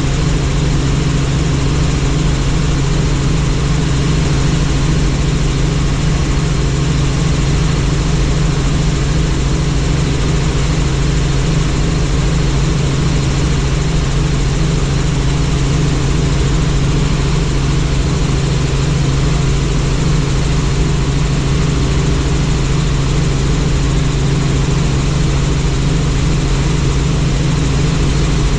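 Helicopter in steady flight: a loud, unchanging drone of engine and rotor, with a fast, even rotor beat underneath.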